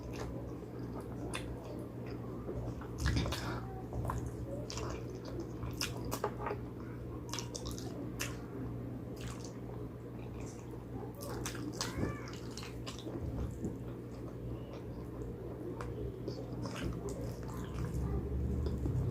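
Close-miked chewing and wet lip-smacking while eating pig trotters: irregular sticky mouth clicks, over a steady low hum.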